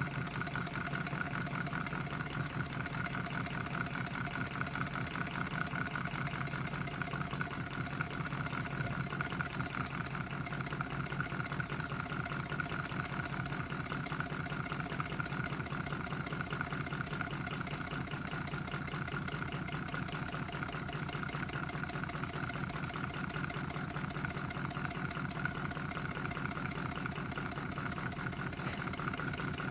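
A 3D-printed Stirling engine with a water-cooled piston running steadily, its moving parts making a rapid, even mechanical rattle.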